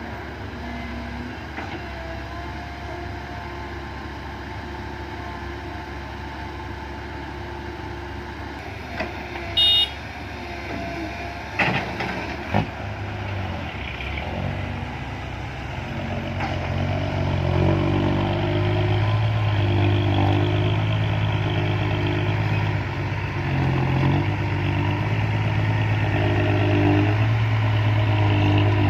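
Diesel engine of a six-wheel dump truck running, growing louder and heavier from about halfway through with a pulsing throb. There is a brief high beep just under ten seconds in and a couple of knocks soon after.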